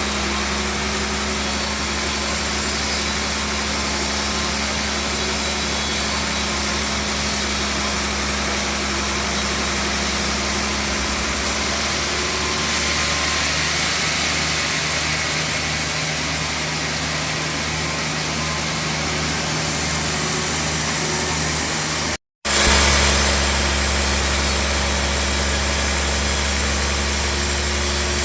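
Band sawmill running with a steady machine hum and noise. The sound drops out for an instant about three-quarters of the way through, then carries on unchanged.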